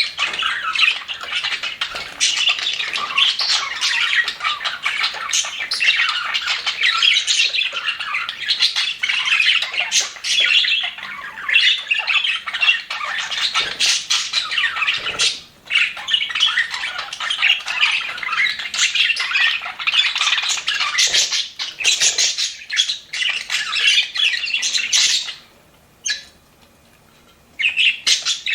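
A flock of budgerigars chattering and warbling together, dense and overlapping, with one short lull about halfway through and a brief pause near the end.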